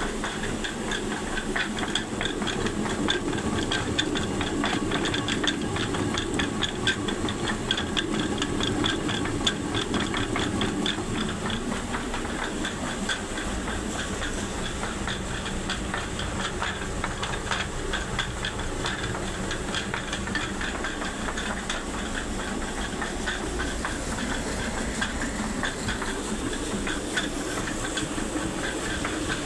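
Water-powered flour mill (panchakki) running: a steady rush of water with a fast, even clatter from the mill.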